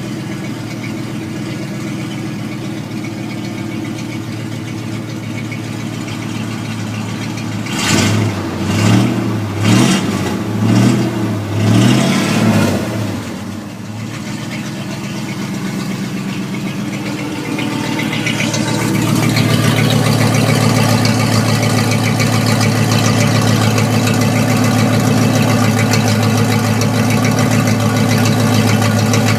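1992 Ford F250 engine running with no exhaust fitted, idling steadily, then blipped through a quick series of about five short revs about a third of the way in. It settles back to idle, then is held at a higher steady speed, louder, for the last third.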